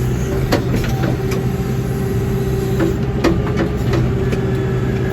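Backhoe engine running steadily with a low hum, with several sharp knocks from the machine scattered through.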